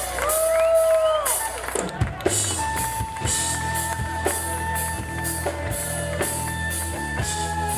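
Live band starting a song: a few sliding pitched tones, then about two seconds in the drums and bass come in with a steady beat under a long held high note.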